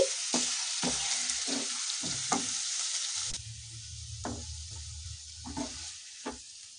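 Hot chilli-garlic chutney sizzling in a non-stick wok just taken off the gas, while a wooden spatula scrapes and knocks it out of the pan. The sizzle weakens about halfway through.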